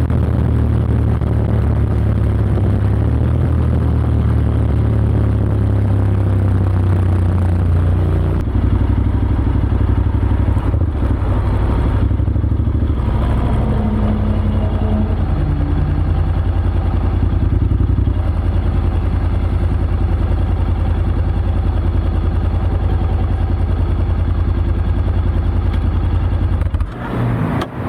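Honda X-ADV 750's parallel-twin engine running through an SC-Project SC-1R slip-on exhaust with its dB killer installed: a loud, deep, steady exhaust note that breaks off shortly before the end.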